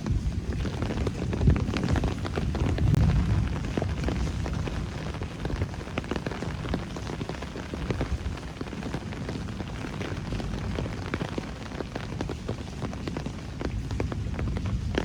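Steady rain recorded close on a phone: a dense low rumble with many individual drops ticking on hard surfaces, swelling briefly a couple of seconds in.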